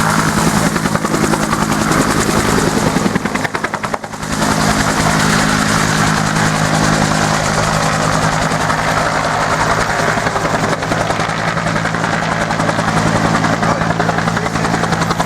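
UH-1 Huey helicopter running close by: the rapid chop of its two-blade main rotor over the steady whine of its Lycoming T53 turboshaft turbine. The sound dips briefly about four seconds in.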